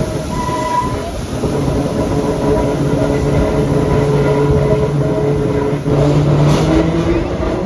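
Vintage BMT BU gate-car subway train running, its traction motors whining in several tones that climb in steps as the train picks up speed. A short rattle comes near the end.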